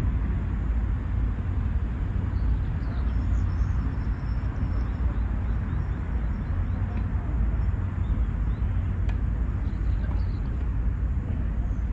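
Outdoor park ambience: a steady low rumble with faint high chirps here and there and one sharp click about nine seconds in.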